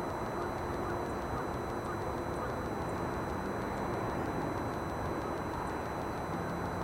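Steady background rumble of distant road traffic, with a faint low hum.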